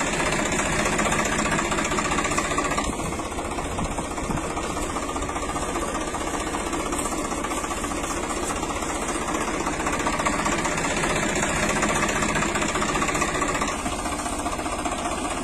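Tractor engine running steadily at a constant speed, with a fast, even pulse of its firing strokes.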